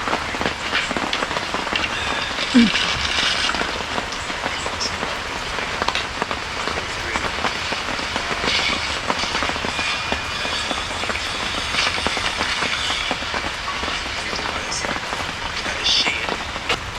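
Heavy rain falling steadily, a dense patter of drops hitting surfaces, with a short louder knock about two and a half seconds in.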